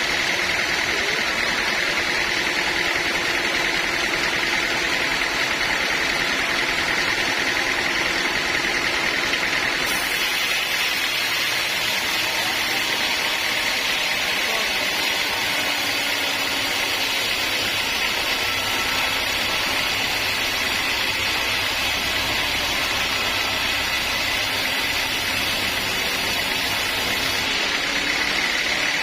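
Sawmill machinery running: a steady mechanical noise with a constant high whine, its tone shifting about ten seconds in.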